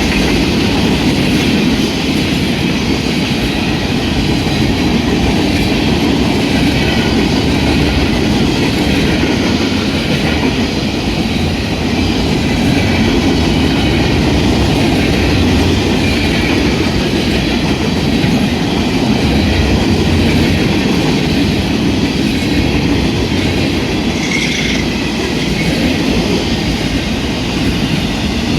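Manifest freight train rolling steadily past, its cars' wheels clacking over the rail joints, with a short high squeal about 24 seconds in.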